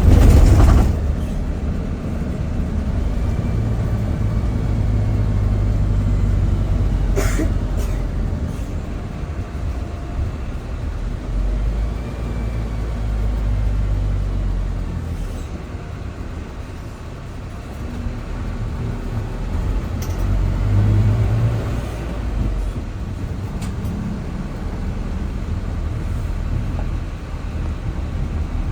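Airliner cabin noise heard from a passenger seat: a steady low engine drone and airflow rumble that swells and eases slowly, with a loud rush in the first second and a brief sharp noise about seven seconds in.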